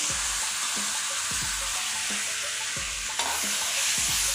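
Chopped onions and freshly added tomatoes sizzling steadily in hot oil in a kadai, stirred with a spatula.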